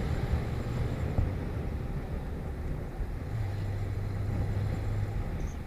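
Single-cylinder engine of a 2006 Hero Honda Glamour 125cc motorcycle running steadily at cruising speed, mixed with wind and road noise.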